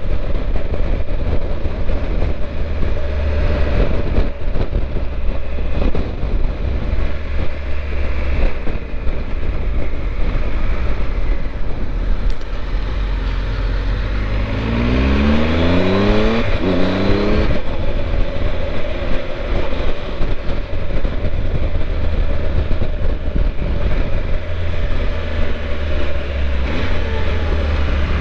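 Triumph Tiger 1200's three-cylinder engine running under way with heavy wind rush over the microphone. About halfway through, the engine revs up with rising pitch, breaks off briefly for a gear change and climbs again, then settles back to a steady cruise.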